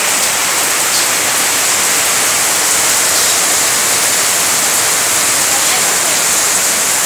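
Heavy rain falling on corrugated sheet roofing and streaming off the roof edges onto the ground: a steady, even hiss.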